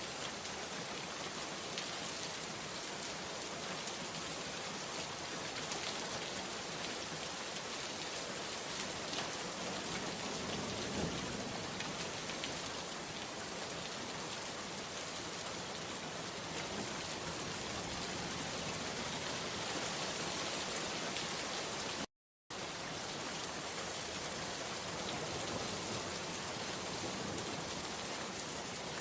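Steady, dense rainfall pattering on surfaces. The sound cuts out completely for a split second about three-quarters of the way through, then resumes unchanged.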